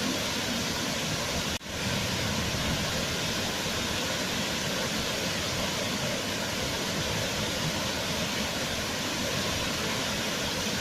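Waterfall rushing with a steady, even noise, which cuts out for an instant about one and a half seconds in and resumes at once.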